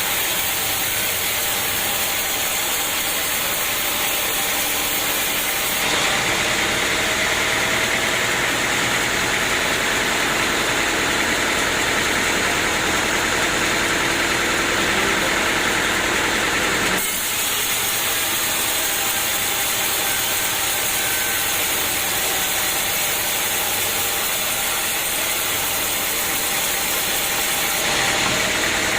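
Sawmill running with a steady engine and machine noise. Its tone changes abruptly about six seconds in, again near seventeen seconds and near the end.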